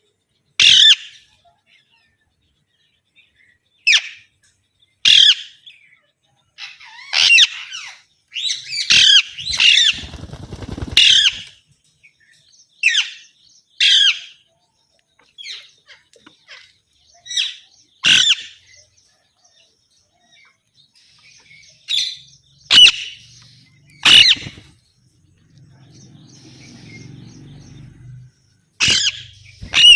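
Pet green parrots squawking: short, shrill calls repeated irregularly, bunched in quick succession several times. A brief low rattling noise comes about ten seconds in and a faint low hum near the end.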